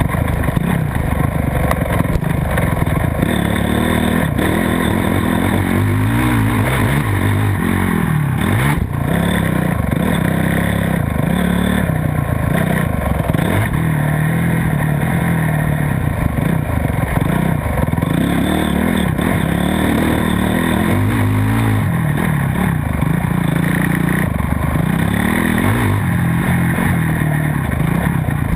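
Motocross bike engine at race pace, revving up and falling back every second or two through the throttle and gear changes, with a steady clatter of noise under it.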